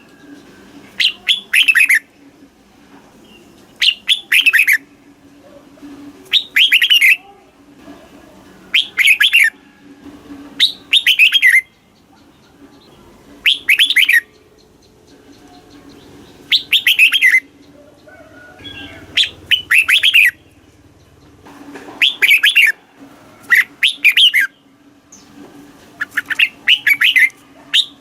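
Red-whiskered bulbul singing its short, bright, warbling phrases over and over, one about every two seconds. A faint low hum sits underneath.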